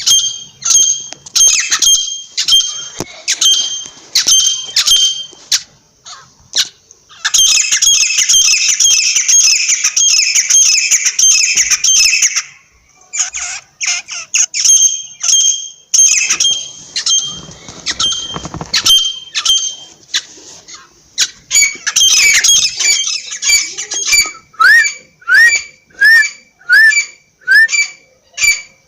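Francolin (teetar) calling: long runs of loud, shrill, harsh notes repeated in quick series, with a few short rising notes near the end.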